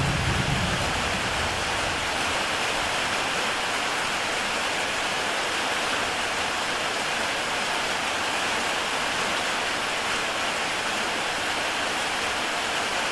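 Heavy rain falling steadily on a tile roof, an even hiss, with a brief low rumble in the first second.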